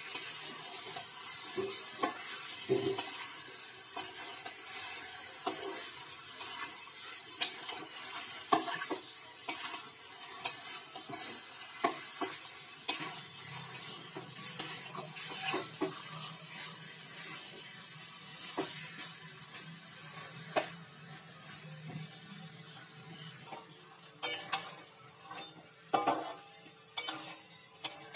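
Marinated chicken pieces sizzling in hot mustard-oil masala in a metal kadai while a spatula stirs and turns them, knocking and scraping against the pan. The sizzle is strongest at first and dies down, and the spatula knocks come quicker near the end.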